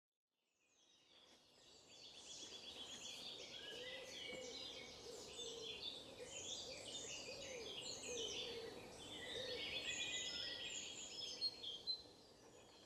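Many birds chirping and singing at once, a dense mix of quick high trills and calls, with a lower call repeating steadily underneath. It fades in about a second in and falls away near the end.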